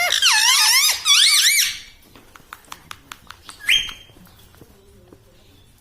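Ring-necked parakeet giving a loud, shrill warbling call with rapidly wavering pitch for about two seconds. A string of light clicks and one short squawk follow.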